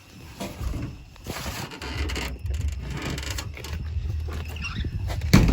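Rustling and scraping of someone moving about while carrying the camera, with a sharp knock near the end. Crickets chirp faintly and steadily underneath.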